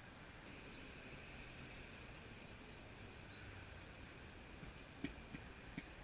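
Faint steady outdoor background with short high bird chirps: a pair about half a second in and another pair a little before the middle. Near the end come three light taps.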